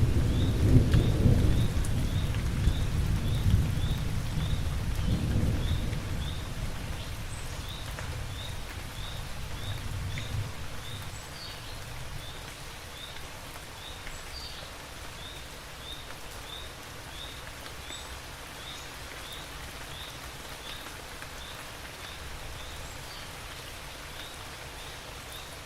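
Heavy rain with a rolling thunder rumble at the start that dies away over about six seconds, a weaker rumble near ten seconds, then steady rain. A short high chirp repeats about twice a second throughout.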